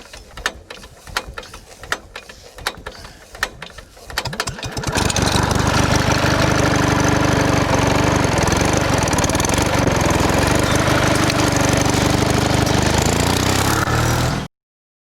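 A motor runs loud and steady after a few seconds of scattered clicks, then stops suddenly near the end.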